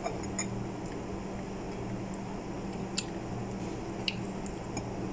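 Soft wet squishing from kiwi being chewed and its skin peeled off by hand, with a few faint clicks, over a steady low hum.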